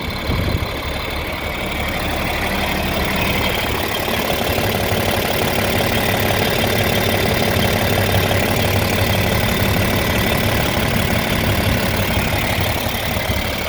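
John Deere 4430 tractor's six-cylinder diesel engine running steadily, growing a little louder over the first few seconds and then holding even.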